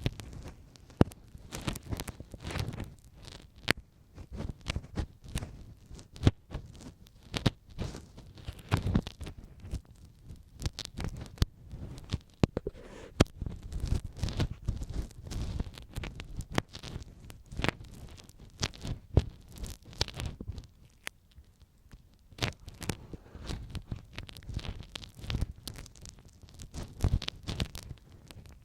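Ear pick working in an ear close to the microphone: a steady run of small scratches, scrapes and clicks over dull low rumbles, thinning out for a moment a little past two-thirds through.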